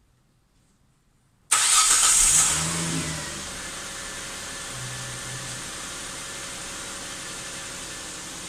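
2008 Hyundai Santa Fe's V6 engine starting from cold about a second and a half in. It is loud for about a second as it catches, then settles into a steady idle.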